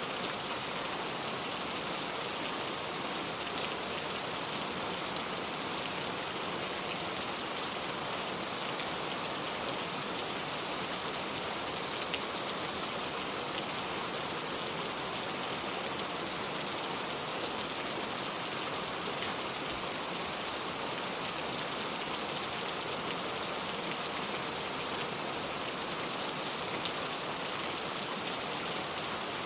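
Heavy pouring rain: a steady, dense hiss of rainfall with many individual drops ticking on a surface.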